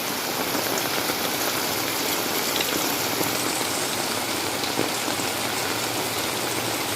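Heavy rain falling steadily: a dense, even hiss with scattered drop taps.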